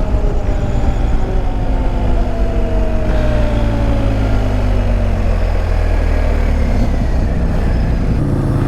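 Motorcycle engine running, its pitch slowly falling over several seconds, with a second, higher engine note starting near the end.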